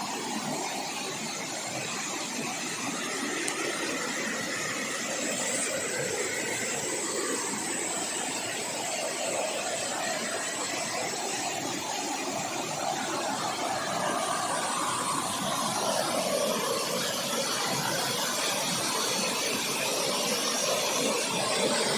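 Water rushing and splashing over rocks in a forest stream at a small waterfall: a steady, full rushing that grows a little louder near the end.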